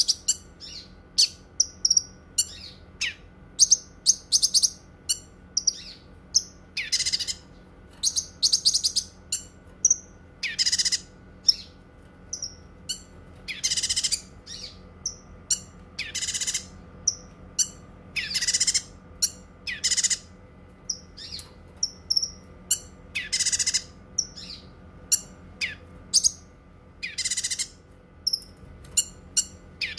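Cucak kinoi songbird singing: a steady run of short high chirps, broken every few seconds by louder, longer, harsh high bursts about a second each, the long 'nembak' calls. The bird repeats these about nine times.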